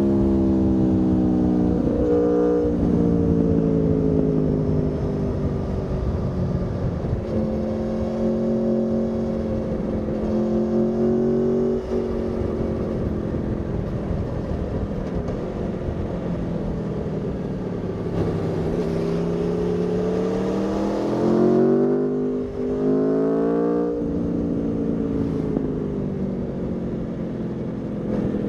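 Aprilia Tuono V4's V4 engine under way on the road. Its note falls in the first couple of seconds, then rises and falls with the throttle through the middle. Near the end the revs climb steadily, then break and drop twice in quick succession as it shifts up, under a steady rush of wind and road noise.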